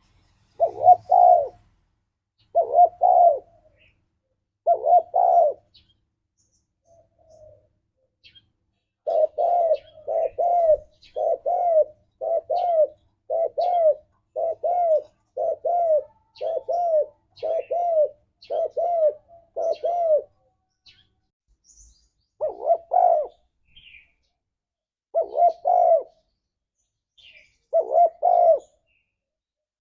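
Spotted dove cooing: low, repeated coo phrases. A few spaced phrases open and close the stretch, with a long unbroken run of about a dozen coos, just under one a second, in the middle. Faint high chirps from small birds are heard here and there.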